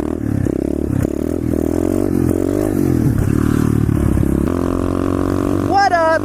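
Pit bike engine revving up and down several times, then running more steadily about four and a half seconds in.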